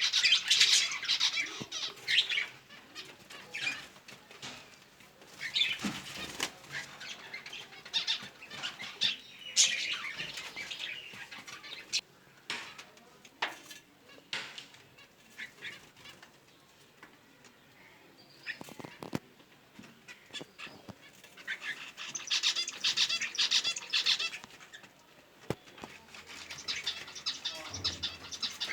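Pet birds chirping in several bursts, with scattered clicks and rustles in between.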